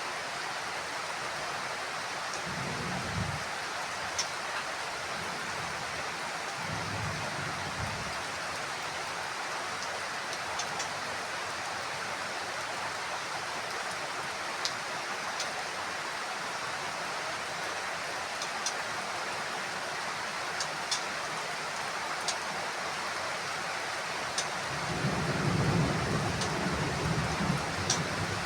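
Heavy rain falling steadily on a house roof, with scattered sharp drop ticks. Thunder rumbles low twice briefly in the first eight seconds, then a longer, louder rumble builds near the end.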